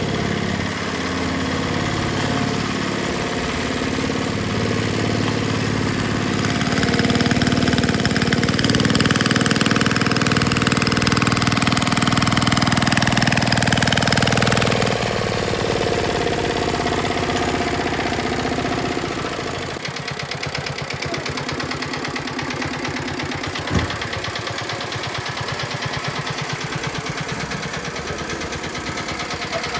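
Farm machine engine running at higher speed, then winding down with a falling pitch about halfway through and settling to an even, pulsing idle. There is a single sharp knock about three-quarters of the way in.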